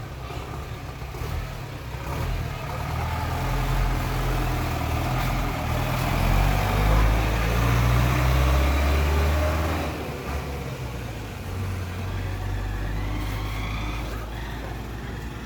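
A motor vehicle's engine running, a low rumble that swells to its loudest a little past the middle and then drops off.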